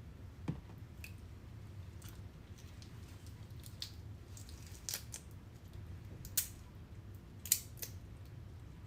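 Scattered sharp clicks and snips, with the strongest near the end, over a steady low hum.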